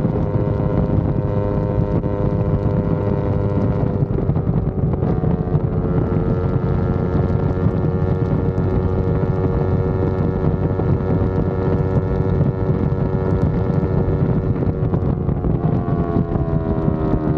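Yamaha R25's 250 cc parallel-twin engine running at steady road speed, with wind rushing over the microphone. The engine pitch eases down about five seconds in, holds, then drops again near the end as the revs fall.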